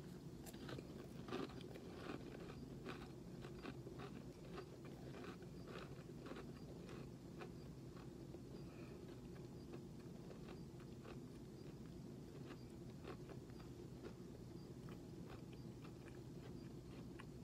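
A person chewing a cracker topped with tuna, with faint, irregular crunches throughout, over a low steady hum.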